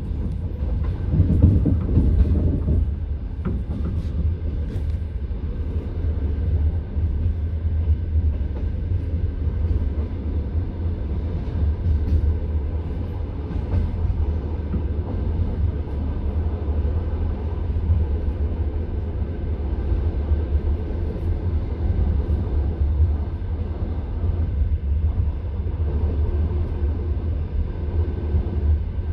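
Steady low rumble of a passenger train carriage, slightly louder for the first couple of seconds, with no clear wheel clatter.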